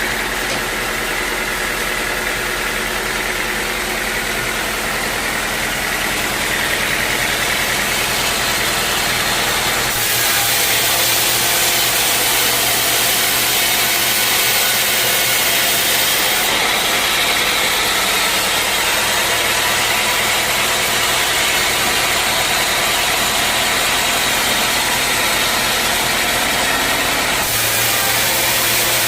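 Sawmill machinery running steadily: a motor hum under a dense hiss. The sound changes abruptly about ten seconds in and again near the end.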